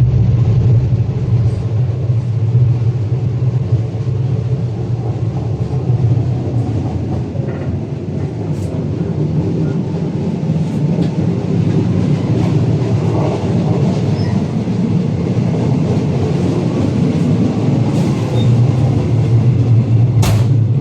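Passenger train running along the line: a steady low drone over rolling rail noise, with a few sharp clicks, two of them near the end.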